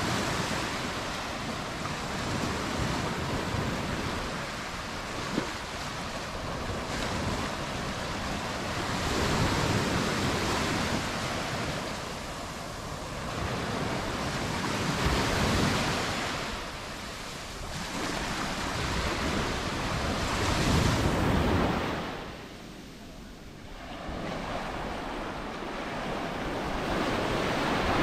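Mediterranean surf breaking and washing up the beach, swelling and easing every few seconds, with a quieter lull a little over three-quarters of the way through.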